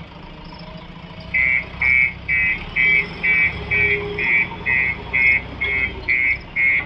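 Reversing alarm of a JCB 3DX backhoe loader, a high beep repeating steadily about twice a second, starting about a second in, over the low running of the diesel engine.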